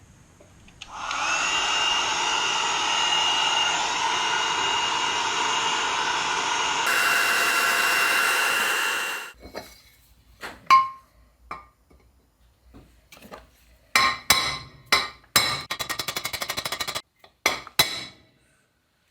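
A heat gun blows steadily for about eight seconds with a thin whistle over its rush of air, warming the aluminium gearbox case so the layshaft bearing's outer race will go in. It is followed by a series of sharp metal knocks, clinks and a quick rattle as the race is fitted.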